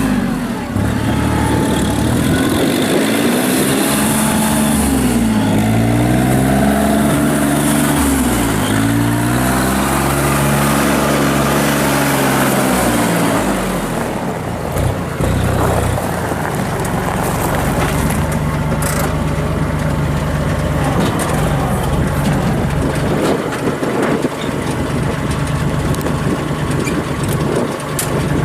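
Kubota L39 tractor's diesel engine running, its pitch rising and falling several times over the first half as the engine speeds up and slows, then running at a steady speed.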